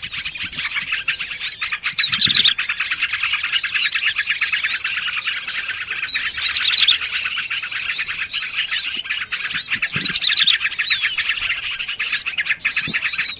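Dense, unbroken chirping and chattering of many small songbirds layered over one another. It is a bird-lure mix of calls such as sooty-headed bulbul (trucukan) and prinia (prenjak), played to draw wild birds in.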